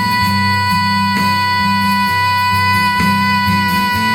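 Country band playing, with one long held note sustained over steady guitar and bass backing and occasional drum hits.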